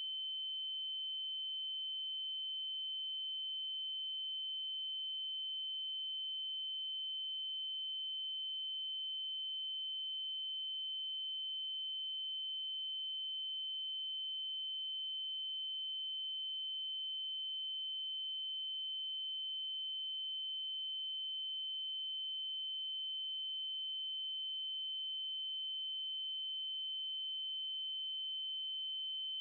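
Synthetic 3072 Hz triangle-wave test tone: one steady, unchanging high-pitched note, with a faint tick about every five seconds.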